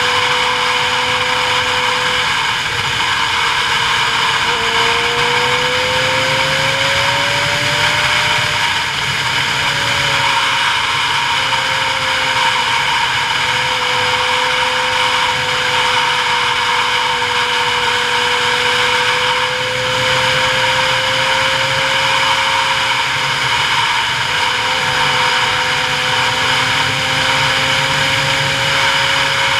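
A vehicle running steadily on a long downhill ride, with road and wind noise. Its motor hum drifts slowly up and down in pitch, with no sharp revs or stops.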